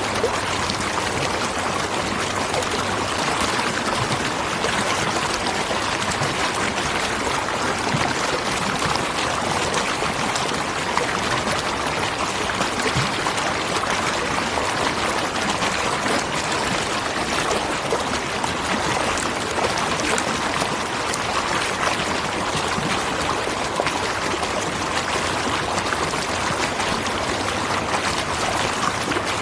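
Natural waterfall: a steady rush of falling water, with many small splashes on top.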